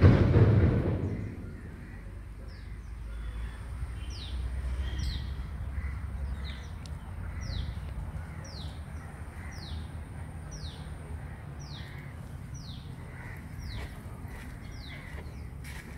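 A bird calling over and over: a short, high, falling note about every two-thirds of a second. A brief loud rush of wind or handling noise comes at the very start.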